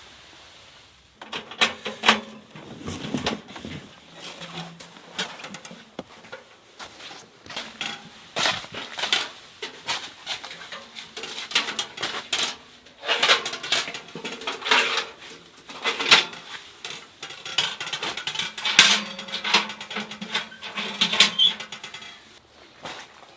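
Irregular knocks, clicks and clatter of objects being handled, packed densely through most of the stretch.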